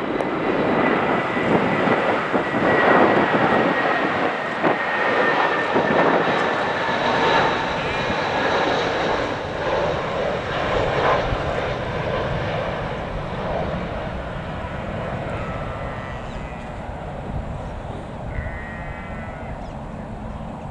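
Airbus A319-131 jet airliner passing on its landing approach: its IAE V2500 engines give a rushing roar with a high whine that drops slightly in pitch. The sound is loudest over the first half and slowly fades away.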